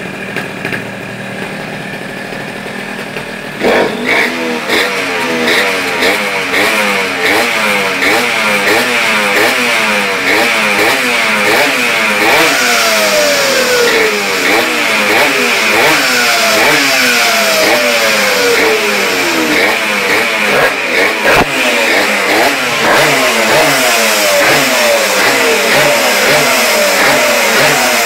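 Polini 911 pocket bike's two-stroke engine running steadily, then from a few seconds in revved up and down again and again, each blip rising and falling in pitch. One sharp knock comes about two-thirds of the way through.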